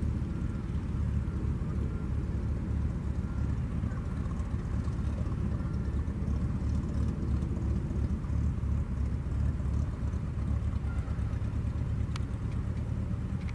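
Cessna 182Q Skylane's piston engine running, a steady low rumble, with a single sharp click about twelve seconds in.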